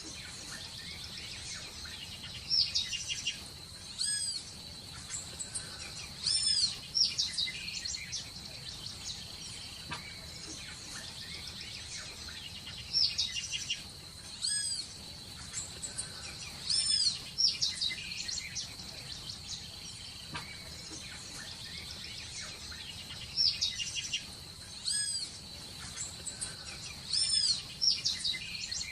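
Birds calling in short clusters of quick, arching high-pitched notes that come back in the same pattern about every ten seconds, over a steady high-pitched insect drone.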